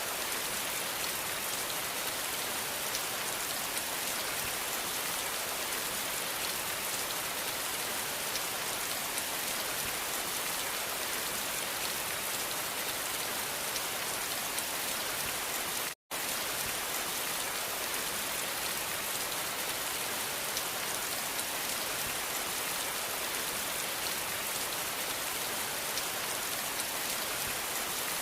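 Steady, even rainfall, a dense hiss of raindrops on a surface. The sound drops out to silence for a split second about sixteen seconds in, then resumes unchanged.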